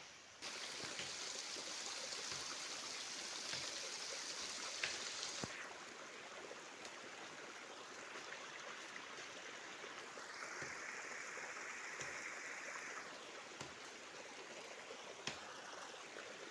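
A steady rushing hiss like running water, starting abruptly about half a second in and shifting in tone a couple of times; no chainsaw is running.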